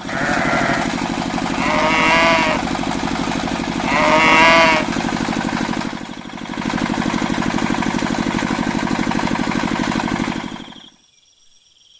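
An engine chugging steadily with a fast even pulse, under two drawn-out livestock calls, like cattle mooing, about two and four and a half seconds in. The engine cuts off near the end.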